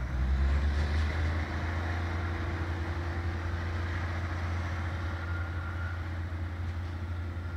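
A 2600 Class diesel multiple unit pulling away into the distance, heard as a steady low rumble with a slight swell in the first second or so.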